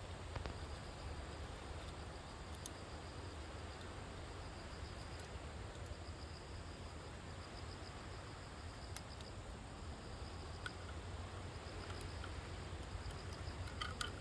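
Faint insects chirping outdoors in repeated pulsing trains of a high, thin note, over a steady low hum, with a few light clicks.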